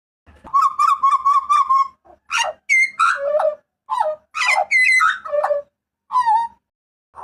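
Butcherbird (jagal papua) giving loud calls: a quick run of about seven warbled notes, then a string of loud varied notes, several sliding down in pitch, and a single short note near the end.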